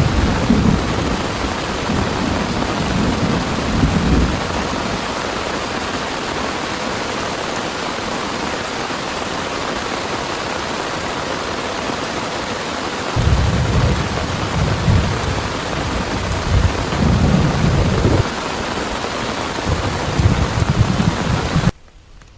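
Heavy rain pouring steadily, with thunder rumbling at the start and again in long rolls through the second half. The sound drops off suddenly near the end to much quieter rain.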